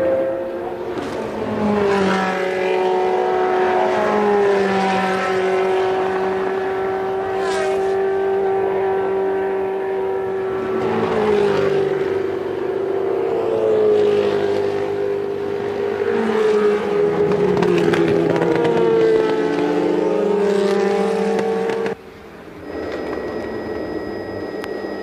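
Several 1980s Formula One car engines running together, their pitches rising and falling as they rev and shift. About 22 seconds in the sound drops suddenly to a quieter engine sound with a thin steady high whine.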